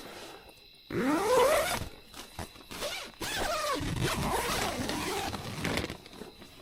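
A zipper being pulled twice: a short rising rasp about a second in, then a longer, wavering pull from about three seconds in.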